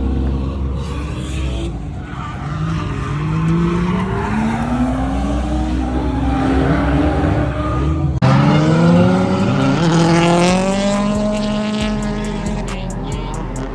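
Drift cars' engines revving hard, their pitch climbing and dropping again and again, with tyres squealing as the cars slide. The sound changes abruptly about eight seconds in.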